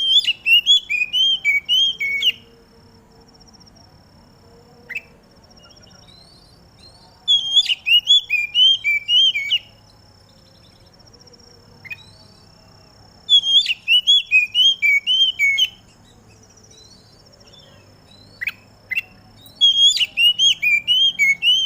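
Oriental magpie-robin (kacer) singing in four bursts of quick repeated notes, each about two seconds long and coming roughly every six seconds, with a few single short calls in the gaps.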